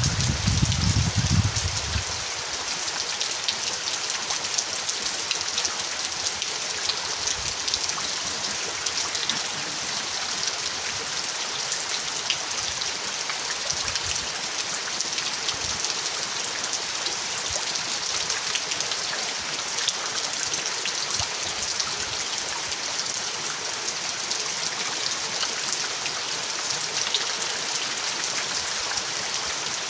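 Steady rain falling, with individual drops ticking on a surface. A low rumble fades out about two seconds in.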